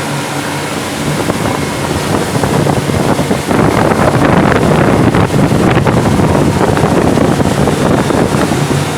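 Towing motorboat's engine droning steadily, with a loud rush of wind on the microphone and water noise from about three and a half seconds in until near the end.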